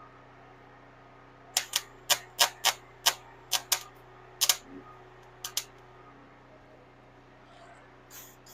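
A quick, irregular run of about a dozen sharp clicks over some four seconds, starting about a second and a half in, with a fainter click near the end.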